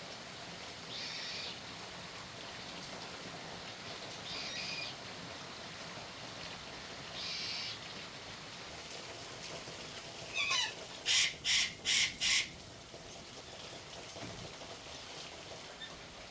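Birds calling: short raspy calls every three seconds or so, then a quick falling note and a run of four loud harsh calls about two-thirds of the way through.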